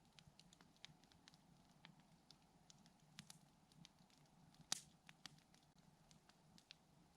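Campfire burning with faint, scattered crackles and one sharper pop a little past halfway.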